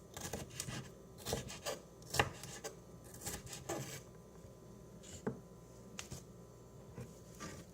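Food preparation on a cutting board: irregular knife taps and scraping, busy for the first few seconds, then a few scattered taps.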